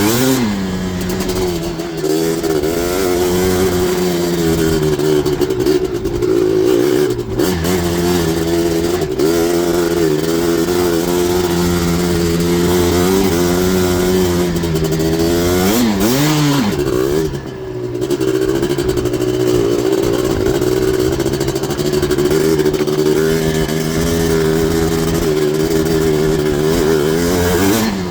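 A Yamaha Blaster's 240cc big-bore single-cylinder two-stroke engine, breathing through an FMF exhaust, is ridden hard near wide-open throttle. Its pitch mostly holds high but drops and climbs back quickly when the throttle is chopped and reopened: about a second in, around seven seconds, and again around sixteen to seventeen seconds.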